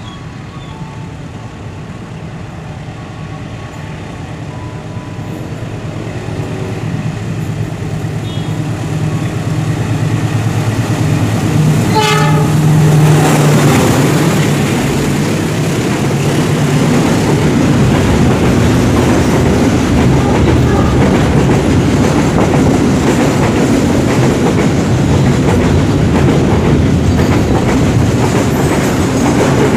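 Container freight train approaching and passing close by: the locomotive's hum grows steadily louder, a short horn blast sounds about twelve seconds in as it draws level, then the container wagons roll past with a steady rumble and clickety-clack.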